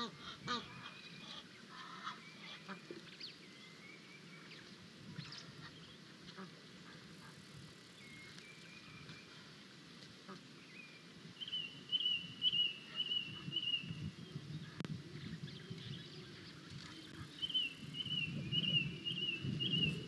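Wild birds calling: scattered short chirps, then two runs of quick repeated honking notes, one about halfway through and one near the end.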